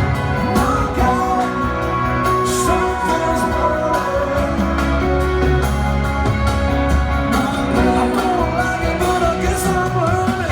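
Live rock band playing with a sung lead vocal, heard through a phone microphone in the audience, with long held vocal notes over the band.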